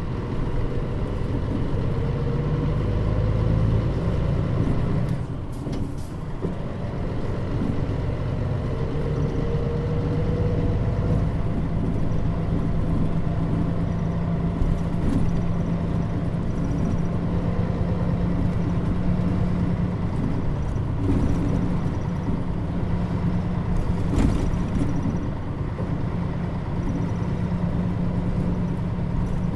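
Mitsubishi Fuso Aero Star city bus (KL-MP35JM) running under way, heard from inside the cabin: a steady diesel engine drone whose pitch climbs as it accelerates, dips briefly about five seconds in, then settles into steady running.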